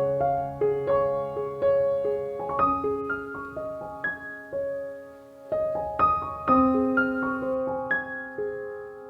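Soft solo piano background music: slow, gentle single notes over sustained chords.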